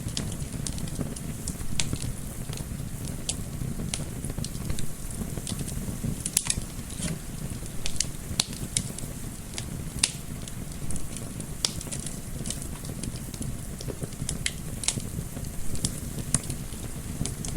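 Wood fire crackling, with irregular sharp pops several times a second over a steady low rush of gentle wind.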